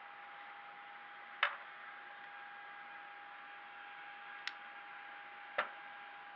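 Steady background hiss with a faint constant tone, broken by three sharp clicks: one about a second and a half in, then two close together near the end.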